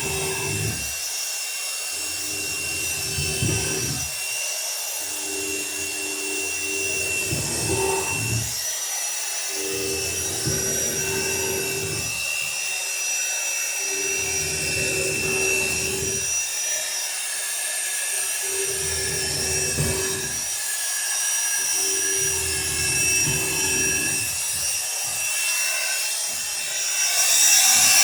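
Electric drill boring rivet holes through two overlapping planks of a wooden dory, in about eight runs of a second or two with short pauses between them.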